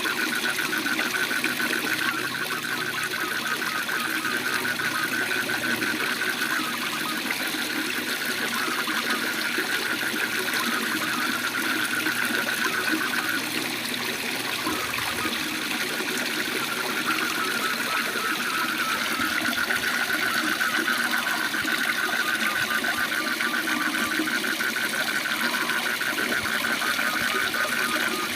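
Steady rush of a waterfall, with a fast, pulsing trill of frogs calling over it.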